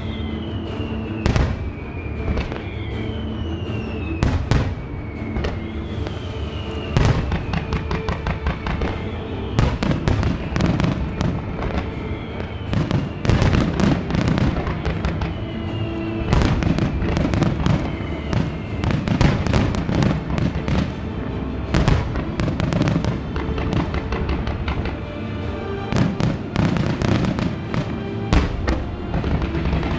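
Display fireworks shells bursting in rapid, irregular succession, thickening from about ten seconds in, over the show's music. Several falling whistles come in the first half.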